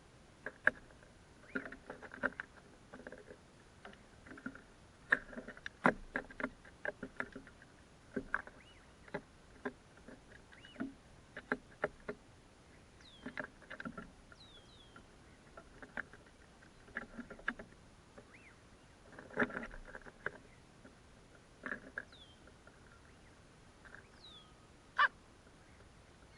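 Crows at food, giving many short, soft calls mixed with sharp clicks and knocks throughout. A few thin, high, falling chirps come in about halfway through and again near the end.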